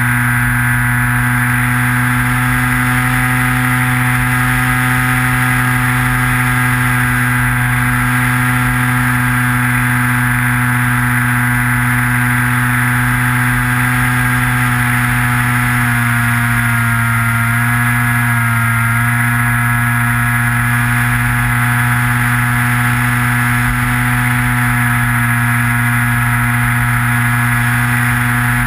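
Electric motor and propeller of a Skywalker FPV plane in flight, heard from the onboard camera: a loud, steady droning whine with wind rumble on the microphone. The pitch dips slightly for a few seconds about two-thirds of the way through, as the throttle changes.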